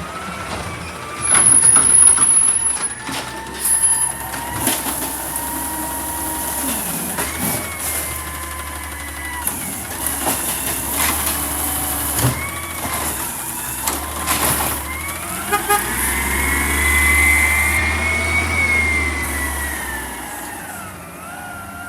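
Recycling truck working at the curb: its engine runs with a whining tone that rises and falls. There is a loud burst about a second in and sharp metallic clanks later on.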